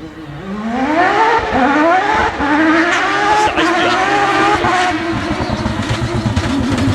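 Mazda rotary engine of a Proto 205 rally car accelerating hard, its pitch climbing steeply over the first few seconds and getting louder as it nears, then holding high and wavering at full throttle.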